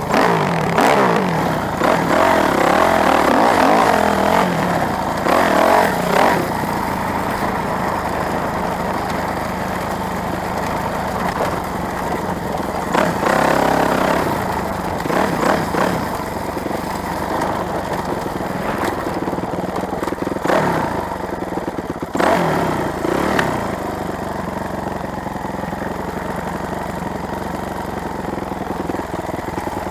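Motorcycle engines running and revving, with several surges in pitch in the first few seconds and again around thirteen and twenty-two seconds in, then running more steadily.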